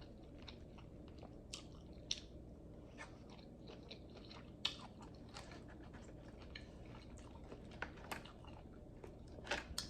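Close-miked eating: faint chewing and biting of seafood, with scattered sharp clicks and crunchy snaps, a few louder ones about halfway and near the end.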